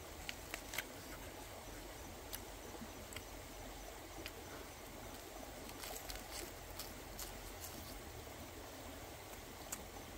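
Close-up eating sounds: scattered sharp clicks of chewing and lip smacks, a cluster about six seconds in as a lettuce leaf is bitten, over the steady rush of a shallow stream.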